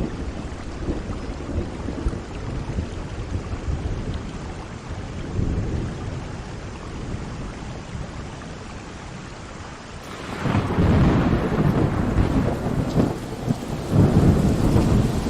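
Steady rain with low rolling thunder rumbling under it. About ten seconds in it abruptly gets louder, with heavier rain and stronger rumbles.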